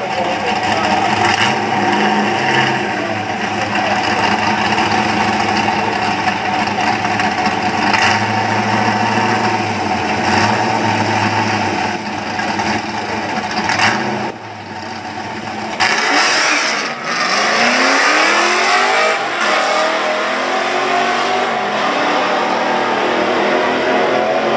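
Pontiac Firebird's LT1 V8 running at the drag-strip start line, then launching about 16 seconds in and accelerating hard, the revs climbing and dropping back at each gear change of its T56 manual gearbox, on motor only with no nitrous.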